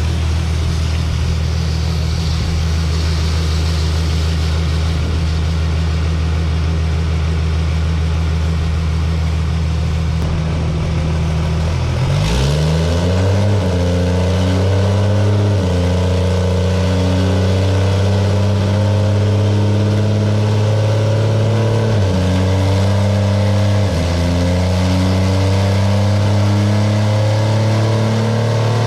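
Cummins inline-six diesel in a drag truck idling steadily, then revving up about twelve seconds in and running at higher rpm, with a few short dips in pitch that recover.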